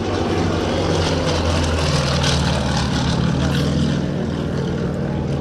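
Yak-52 trainers' propeller engines running as the formation flies past, the engine note dropping in pitch about two seconds in as they pass.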